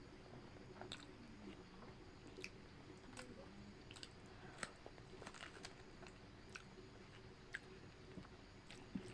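Faint chewing and crunching of food: an irregular run of small crisp clicks and crunches.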